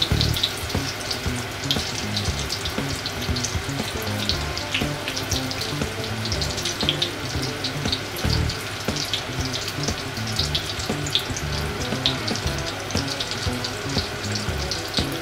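Breaded pork cutlets shallow-frying in oil in a cast-iron skillet: a steady sizzle with continual small crackles and pops.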